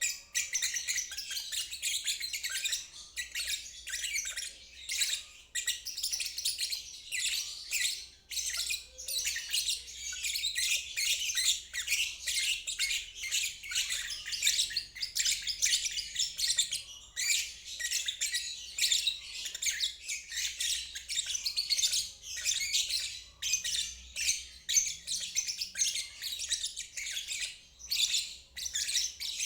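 Lovebird singing its long 'ngeriwik' song: an almost unbroken stream of rapid, high-pitched chattering and chirping, with only brief pauses.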